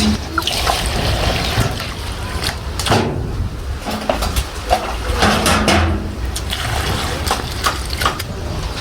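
Water splashing and pouring, with scattered short clicks and knocks throughout.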